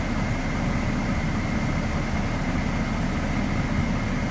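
A vehicle engine idling with a steady low rumble, and a faint thin high tone running through it.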